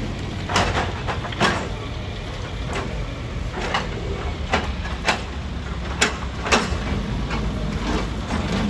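Rock crusher running with a steady low rumble, broken by irregular sharp cracks and clanks, about one a second, as stone is crushed.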